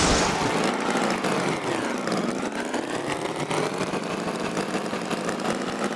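Tractor engine sound effect running steadily, its pitch dipping and then rising again about two seconds in.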